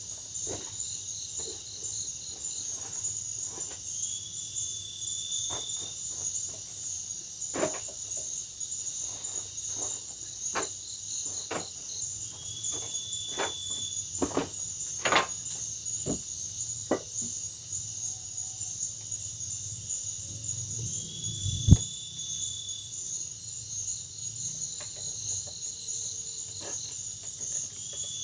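Forest insect chorus: a steady high chirring, with a second insect call rising briefly and recurring about every eight to nine seconds. Scattered light clicks and knocks, with one sharp knock about three quarters of the way through.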